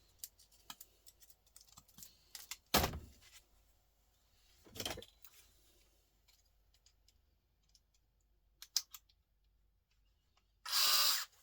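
Small metal and plastic clicks and clinks from pliers working salvaged electronic parts off scrap boards, with two louder knocks a few seconds in and a short, louder scraping noise near the end.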